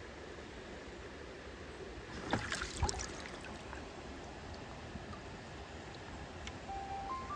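Mountain stream water flowing steadily, with a brief cluster of sharp knocks and splashes about two and a half seconds in. Near the end, a simple bell-like music melody begins.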